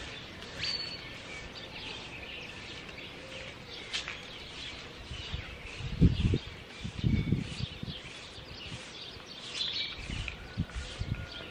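Many small birds chirping and twittering, with low muffled bumps on the microphone about six seconds in and again near the end.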